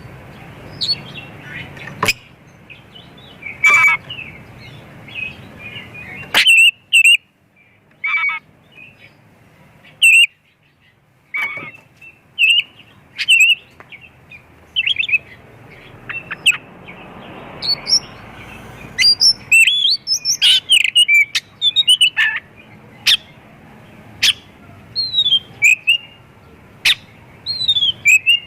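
Oriental magpie-robin (kacer) singing a lively, varied song of loud, sharp whistles and chirps in short phrases with brief pauses, busiest a little past the middle.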